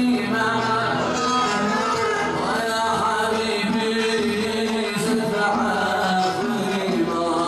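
A male singer singing a drawn-out melody over plucked-string music.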